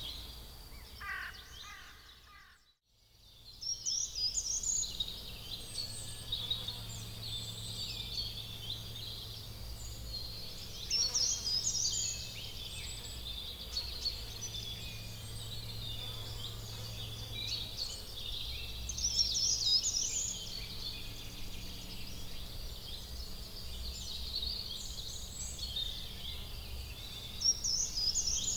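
A chorus of many small birds chirping and twittering together in high, busy calls, over a faint steady low hum. The sound drops out briefly about three seconds in, then the chorus resumes.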